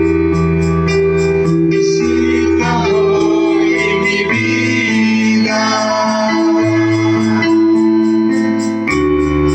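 Worship music played on an electronic keyboard with an organ sound: held chords over a bass line that steps from note to note, with a quick, steady high tick keeping the beat.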